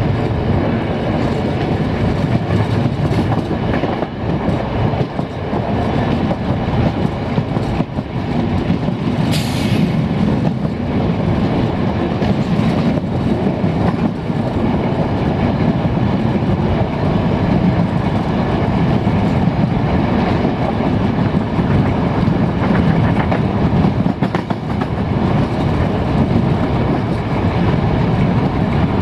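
Passenger train running along the track: a steady rumble of wheels on rails, with a brief high-pitched hiss about nine and a half seconds in.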